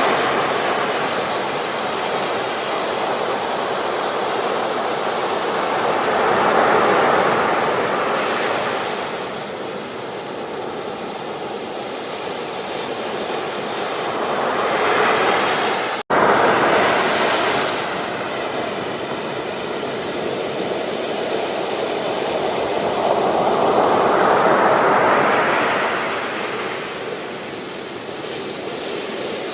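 Ocean surf: waves breaking and washing up a beach, the rush swelling and fading every several seconds. The sound cuts out for a split second about halfway through.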